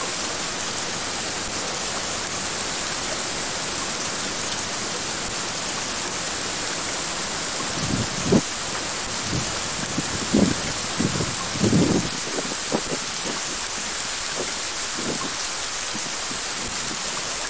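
Steady summer rain falling on a vegetable garden bed and its leaves, an even hiss. A cluster of louder low thuds comes between about eight and twelve seconds in.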